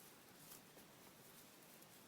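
Near silence: faint outdoor hiss with a few soft clicks, the clearest about half a second in.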